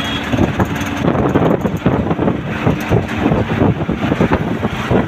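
A vehicle on the move: road and engine noise with wind buffeting the microphone and constant rattling and knocking.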